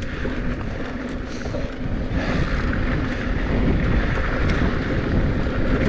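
Mountain bike rolling fast downhill over a dirt trail: the steady rush of tyres on the ground and the bike's rattle, mixed with wind buffeting the microphone.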